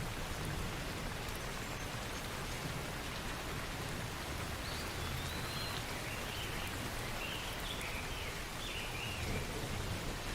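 Steady rain falling and pattering on surfaces. Partway through comes a run of short, high chirping notes.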